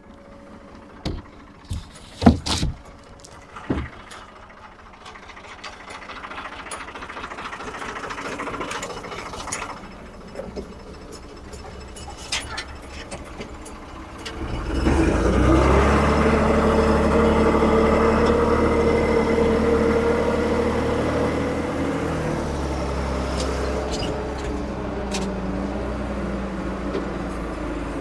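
1975 Ford 550 backhoe's diesel engine running, with several sharp knocks in the first few seconds. About halfway through the engine revs up and holds at a high, steady speed, easing off slightly later on.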